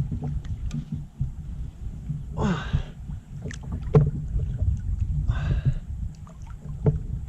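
Water splashing twice against a kayak, with knocks and a low rumble from handling on the hull, as a big catfish is fought and wrangled alongside.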